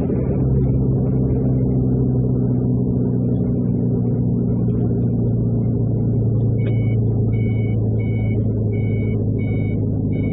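Truck engine running with a steady drone. About six and a half seconds in, a repeating electronic beep starts, roughly one and a half beeps a second.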